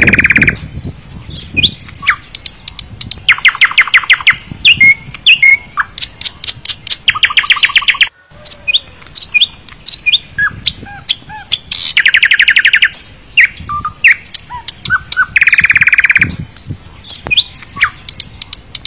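Birdsong: loud rapid trills about a second long, repeated every few seconds, among short chirps and whistles. It breaks off for a moment about eight seconds in.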